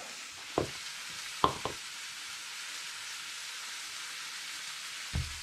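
Onion and red capsicum sizzling steadily in olive oil in a frying pan, with a few light knocks about half a second, a second and a half, and five seconds in.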